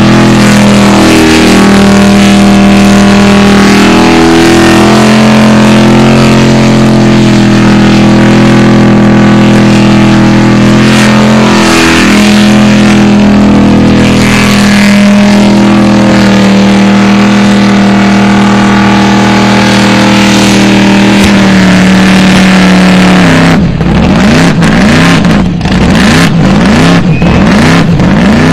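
Supercharged V8 of an HDT VK Commodore burnout car held at high revs while its rear tyres spin in thick smoke. Near the end it drops off and is blipped repeatedly, the revs rising and falling in quick succession.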